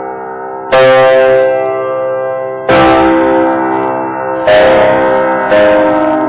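Guitar playing slow chords: four strums, each struck sharply and left to ring out.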